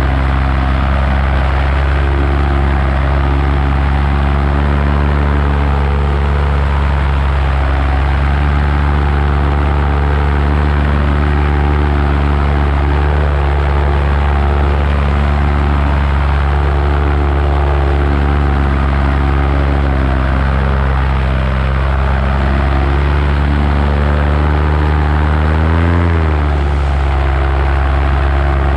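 Paramotor engine and propeller running steadily in flight, with a brief rise and fall in engine pitch near the end.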